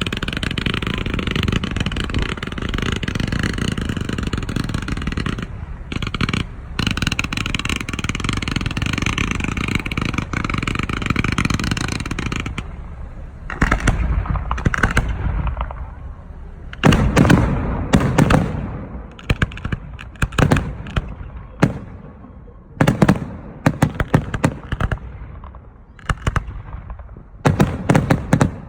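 Aerial fireworks: a dense, continuous crackle and hiss for about the first twelve seconds, which cuts off sharply, then separate shell bursts and booms, some in quick rattling clusters.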